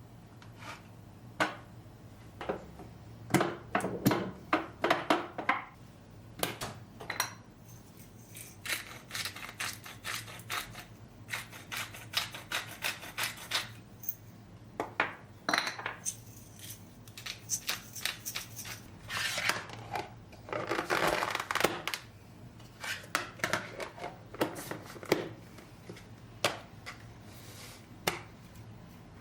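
Household objects being handled and set down: irregular clicks and knocks, with a longer stretch of rubbing or scraping about twenty seconds in.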